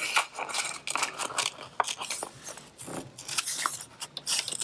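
Scissors snipping through two layers of folded paper: a string of short, irregular cuts.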